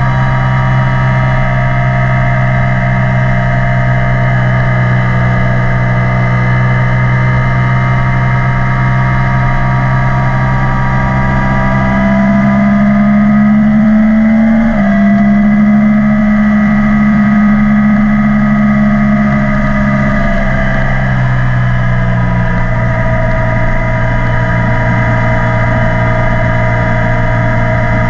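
Yamaha YZF-R1 sportbike's inline-four engine running through an Akrapovic exhaust under way at a steady pace. About twelve seconds in it pulls harder and the note climbs. A sudden drop in pitch about fifteen seconds in marks a gear change, and the note eases off again around twenty seconds in.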